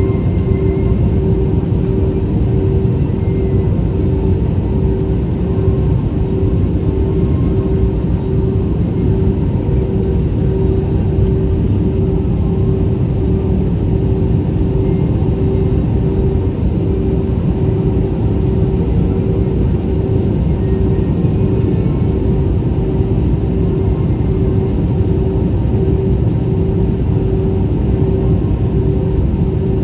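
Steady roar of an airliner's engines and airflow heard from inside the cabin during descent, with a constant mid-pitched hum over it.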